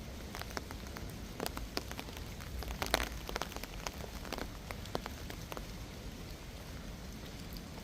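Steady rain, with scattered sharp drops tapping close by; a cluster of louder taps comes about three seconds in.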